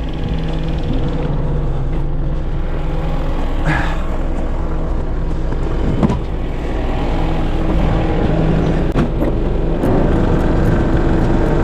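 Farm tractor engine running steadily with a low rumble.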